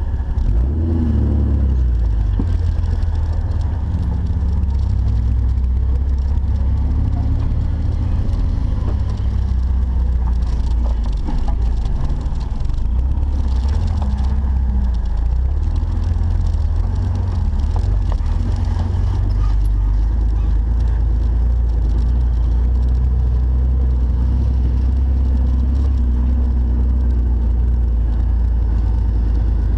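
Jeep engine running at low revs while crawling off-road, with a deep steady rumble under it and the engine note rising and falling with the throttle.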